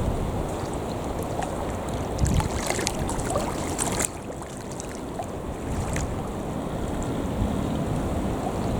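Wind buffeting the microphone over the wash of sea waves, with a few faint clicks; the level drops suddenly about four seconds in.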